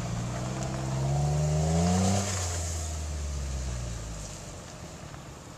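Off-road vehicle engine revving up, its pitch climbing for about two seconds, then backing off and fading away.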